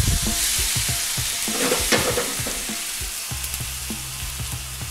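Chopped tomato tipped into hot olive oil and sliced garlic in a wok, sizzling loudly as it hits the pan. The sizzle slowly eases off over the next few seconds, with a few light knocks.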